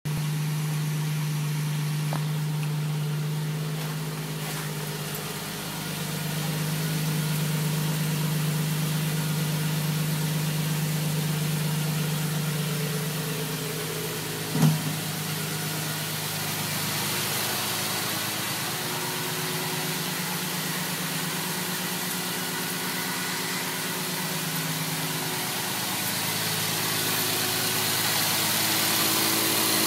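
A 1982 Jaguar XJS's 5.3-litre V12 idling steadily after two months of sitting, with one short thump about halfway through.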